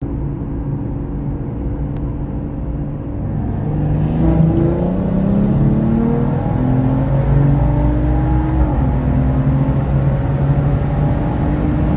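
BMW M140i's tuned, turbocharged 3.0-litre B58 straight-six under hard acceleration. The sound comes in suddenly, and from about four seconds in the engine note climbs steadily in pitch. It drops at a gear change near nine seconds and then pulls on, over a constant low rumble.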